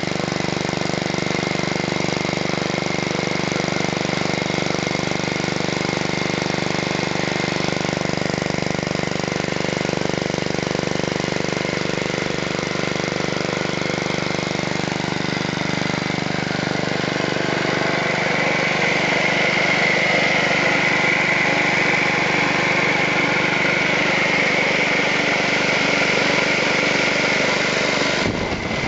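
Wisconsin AKN single-cylinder air-cooled engine running steadily, driving a tilt-bed buzz saw, with the saw's steady whine over it. Past the middle the sound grows louder and rougher.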